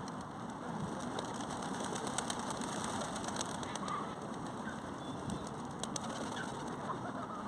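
Steady outdoor background noise with a few faint, scattered bird calls among a flock of park birds.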